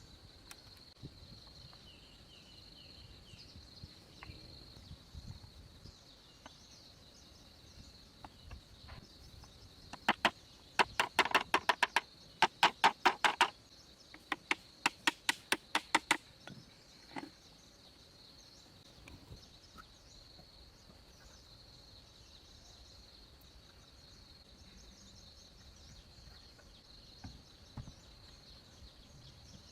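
A run of sharp knocks, about four a second in a few short runs, sounds over a steady high insect drone, such as crickets.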